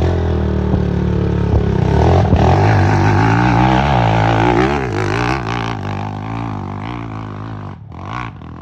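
Enduro dirt bike engine revving hard, its pitch rising and falling with the throttle, then growing fainter over the last few seconds.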